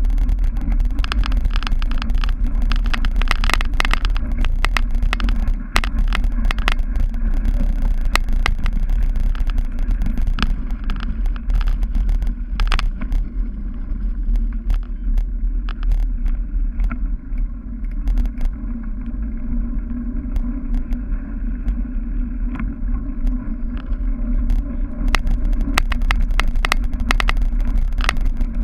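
A cyclocross bike ridden hard over bumpy grass and dirt: a steady low wind rumble on the microphone, with frequent rattles and clicks from the bike.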